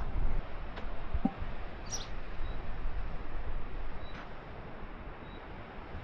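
Outdoor ambience of a steady rushing noise with a few short, high bird chirps and thin notes scattered through it. There are soft footsteps in the first couple of seconds, and the low rumble eases off about four seconds in.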